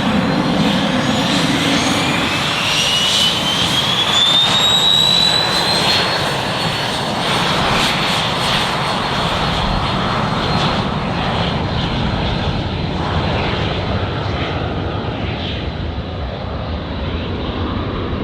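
Aircraft turbine engines running at power: a whine rises in pitch over a few seconds and then holds steady over a thick engine roar. The sound grows gradually quieter and duller in the second half.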